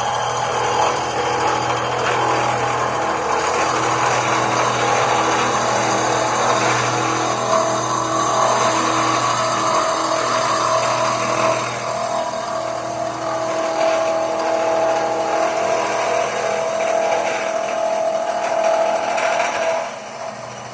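A power tool running steadily under load, with a motor hum and a tone that shifts in pitch as it works. It is switched off just before the end and winds down.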